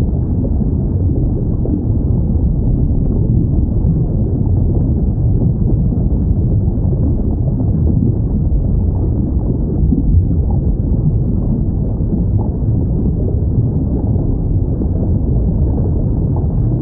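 Steady low underwater rumble, an even noise heavy in the bass, with no distinct whale calls.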